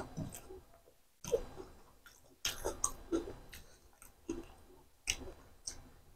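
Close-up eating sounds of a person chewing mouthfuls of rice and chicken liver curry: irregular wet smacks and clicks from the mouth, several a second in places, with short pauses between.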